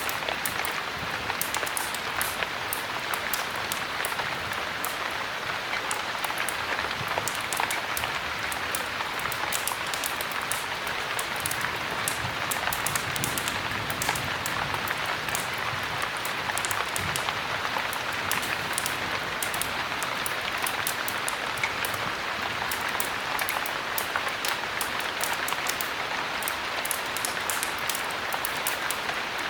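Steady heavy rain falling, an even hiss with many small sharp ticks scattered through it.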